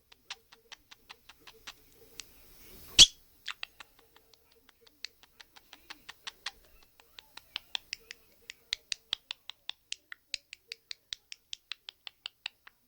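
Pet budgerigar making a steady run of quick sharp clicks, about four a second, louder in the second half, with one loud short chirp about three seconds in.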